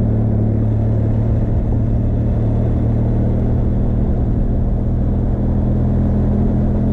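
Benelli TRK 502 X's parallel-twin engine running at steady low revs, with a dense low rumble underneath.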